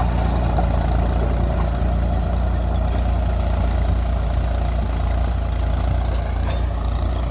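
Mahindra 275 TU tractor's diesel engine running steadily at an even speed.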